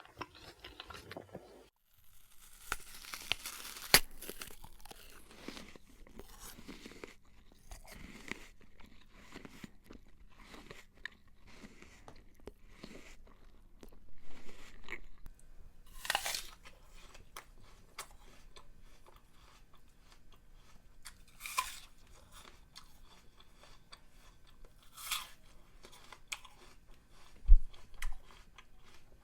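Close-up eating sounds: crunchy food being bitten and chewed, with irregular small crunches and several louder bites spread through. A low thump near the end is the loudest sound.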